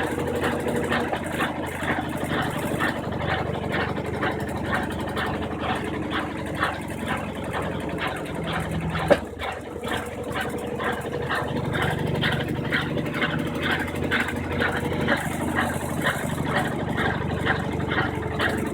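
Brastemp 15 kg top-loading washing machine running in its rinse phase: a steady motor hum with a quick, regular swishing rhythm. There is a single sharp click about nine seconds in.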